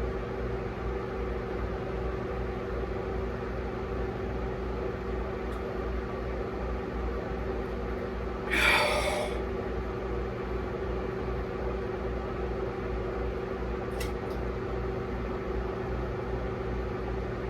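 Steady machine hum with several fixed low tones and a pulsing low rumble, typical of a small room's fan. About nine seconds in comes one short, loud hissing rush.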